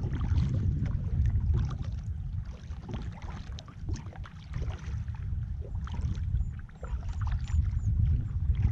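Kayak paddling on calm water: paddle blades dipping and splashing, with water dripping, over a steady low rumble of wind on the microphone.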